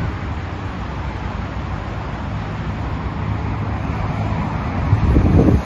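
Heavy traffic on a multi-lane highway, a steady rush of cars and tyres going past, swelling louder near the end as a nearer vehicle passes.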